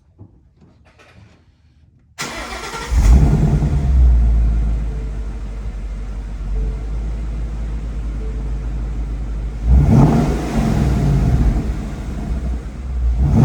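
Ford Mustang GT's 5.0 Coyote V8, mufflers still in place, starting about two seconds in, flaring and then settling to a steady idle. It is a warm start, not a cold one. The engine is then revved briefly twice, once near the end.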